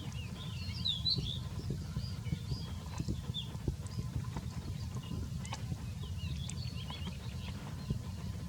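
Small birds chirping in short, quick, high calls, bunched near the start and again near the end, over a steady low rumble.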